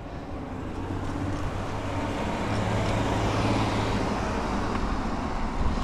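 Riding noise from a Bird electric bike under way: wind rushing over the microphone and tyre noise, with a steady low hum, growing louder over the first couple of seconds as the bike picks up speed.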